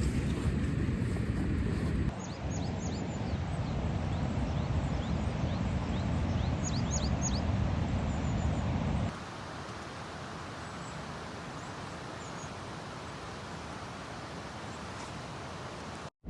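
Outdoor ambience with a steady low rumble, and small birds chirping repeatedly from about two seconds in until about eight seconds in. The background changes abruptly twice and cuts out just before the end.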